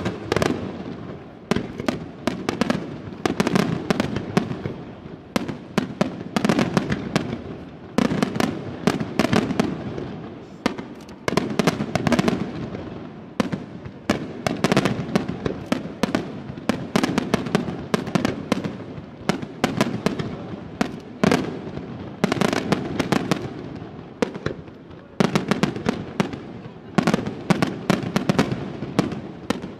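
Aerial fireworks display by Senatore Fireworks: a dense, continuous barrage of shell bursts and rapid crackling, easing briefly every few seconds before another volley surges in.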